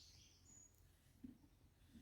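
Near silence with faint bird chirping that fades out within the first second, then a soft low knock a little over a second in.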